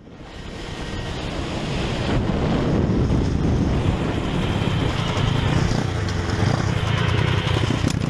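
Motorcycle engine running under way with wind and road noise, fading in from silence over the first couple of seconds and then holding steady.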